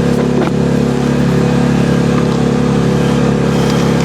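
Mini excavator's carbureted gasoline engine running steadily at a constant speed, with a few light clicks over it.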